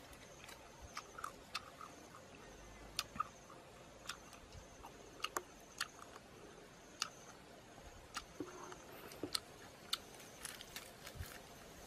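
Grilled snake being bitten and chewed: faint, irregular crunches and clicks.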